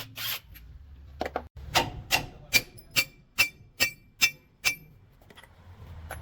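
A hammer striking a metal part of the truck wheel assembly about ten times at an even pace, a little over two blows a second, each with a short metallic ring.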